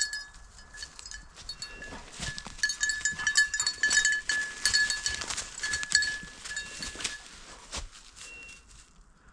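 Bell on a hunting dog's collar jingling and ringing steadily as the dog runs, fading out near the end.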